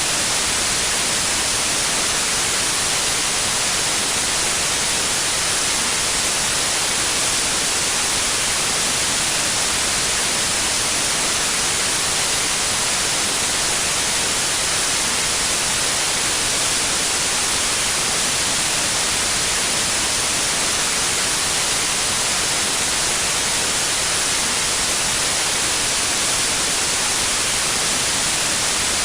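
Steady electronic white noise: an even, unchanging hiss, brightest in the upper range.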